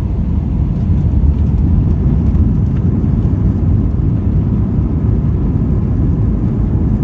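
Loud, steady low rumble inside the cabin of an Airbus A320, the noise of its engines and airframe as the airliner taxis, rolls or climbs out on departure.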